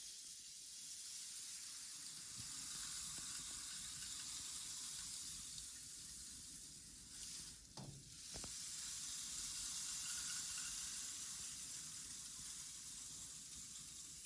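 Loose grains shifting and rustling in a steady, sizzling hiss. About eight seconds in it briefly drops away, with a couple of sharp clicks, then resumes.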